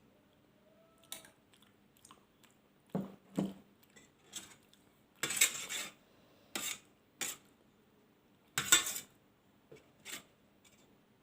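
Cutlery clinking and scraping against a plate in a series of short, separate clatters, with two longer clattering scrapes about halfway through and near the end.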